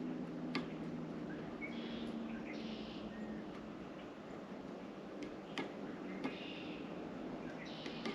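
Songbirds at a feeder calling in short phrases of about a second, repeated every few seconds, with scattered sharp clicks and a steady low hum behind.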